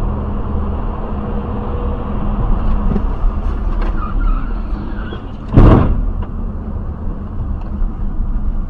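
Car on the move: steady engine and road rumble, with one sudden loud bang about five and a half seconds in.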